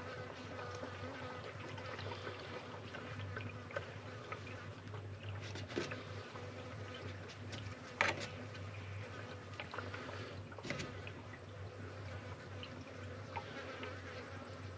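Faint water gurgling and trickling in a Fordson Power Major's radiator as it is filled and settles, over a steady low hum. A few sharp knocks come about six, eight and eleven seconds in.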